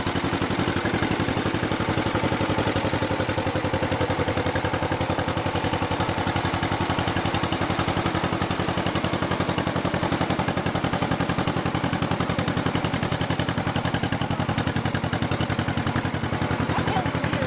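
1955 John Deere 40 S tractor's two-cylinder engine running steadily, a rapid, even string of firing pulses.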